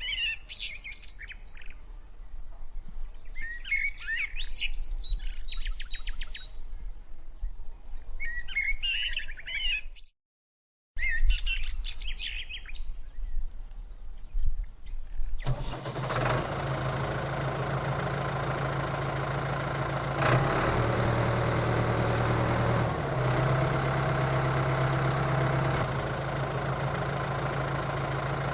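Birds chirping in short bursts over a low rumble, broken by a second of silence. About halfway through, the DIY mini tractor's motor starts and runs steadily with a strong low hum.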